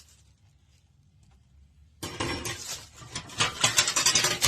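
About two seconds of near silence, then a sudden run of clattering and crinkling that grows loudest near the end as air fryer accessories are pulled out of their packaging.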